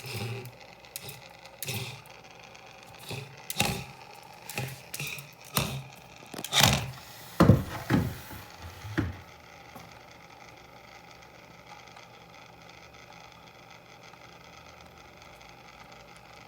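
A series of irregular knocks and taps on a hard surface, about a dozen over the first nine seconds, the loudest near the middle, then only a faint steady background.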